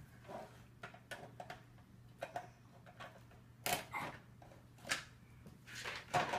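Plastic Trackmaster toy train track pieces being handled and fitted together: a scatter of irregular clicks and knocks.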